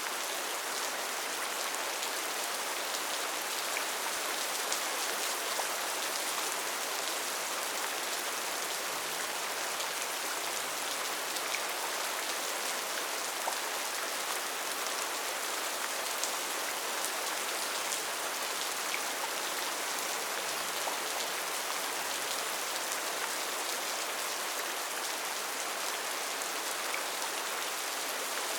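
Steady heavy rain falling in a rainforest, an even hiss with scattered individual drops striking surfaces.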